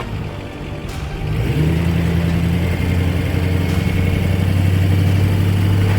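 Vehicle engine revving up about a second and a half in, then holding steady under load as it strains against a tow chain to drag a heavy truck sideways.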